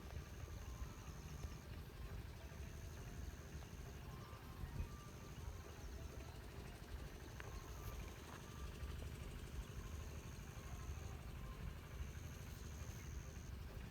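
Outdoor ambience with birds: a high, even buzzing note about a second and a half long repeats every two seconds or so, with a few faint short chirps, over a steady low rumble.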